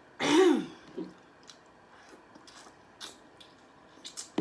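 A short vocal sound from the woman eating, close to the microphone, just after the start. Then soft chewing and small mouth clicks as she eats shrimp.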